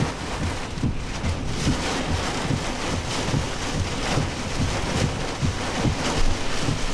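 Straight-line storm wind gusting with driving rain against a truck, heard from inside the cab, with the wind buffeting the microphone in irregular low thumps throughout.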